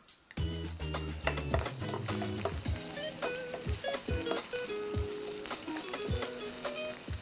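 Ginger-garlic paste, curry leaves and cloves sizzling in hot oil in a non-stick pan, stirred with a wooden spoon.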